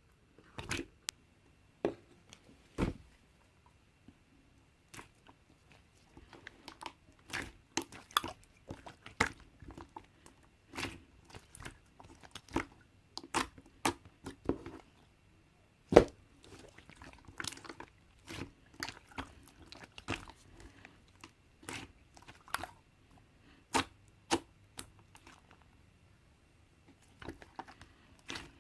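Slime being pressed, poked and stretched by hand, giving irregular sharp pops, clicks and crackles, with short pauses about four seconds in and again near the end.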